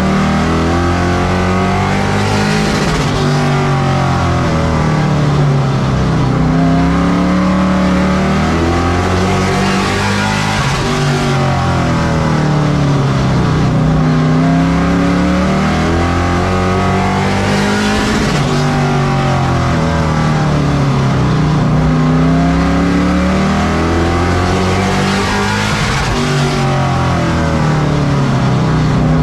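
Race truck engine running hard around a short oval. Its pitch climbs on each straight and drops as it lifts for the turns, about every seven or eight seconds.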